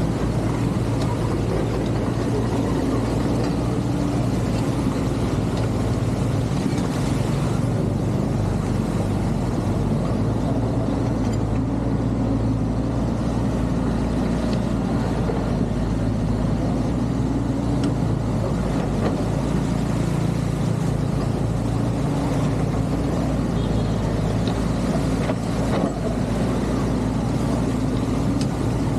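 Excavator's diesel engine running steadily under light load, its pitch shifting a little now and then.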